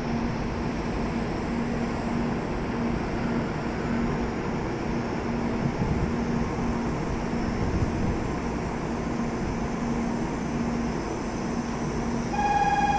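Stationary N700S Shinkansen train humming at the platform, with steady station and train noise and a low hum that pulses on and off. Near the end a steady electronic tone starts sounding.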